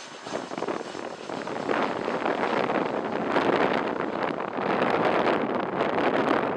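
Strong gusting wind buffeting the camera microphone, a rough, fluttering rush that swells about a second and a half in and stays loud.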